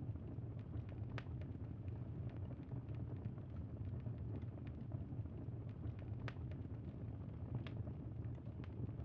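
Campfire burning: a steady low rush of flames with sharp crackles and pops at irregular intervals, three of them louder than the rest.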